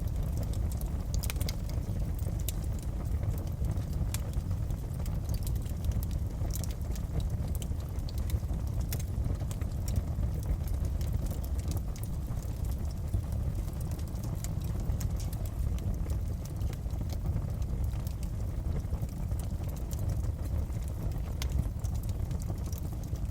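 Wood fire crackling in a fireplace: irregular sharp pops and snaps over a steady low rush of burning.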